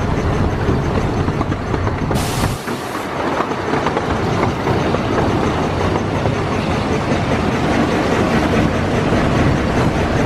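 Miniature amusement-park train running along its track: a steady rumble and clatter of the wheels and cars, with a brief hiss about two seconds in.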